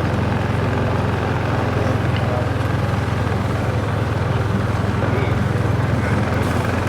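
Motorbike engine running at a steady cruising speed during a ride, a constant low hum with road noise around it.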